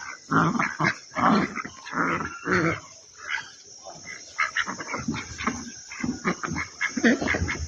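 An animal's short pitched calls in a quick, irregular series, coming thick throughout.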